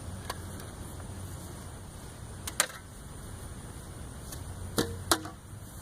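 A few sharp knocks, the loudest about halfway through and two more close together near the end, over a steady low background rumble.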